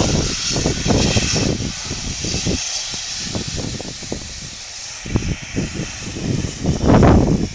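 Steam locomotive venting steam with a steady hiss, loudest in the first second and a half, over irregular low thuds and rumble that surge louder about seven seconds in.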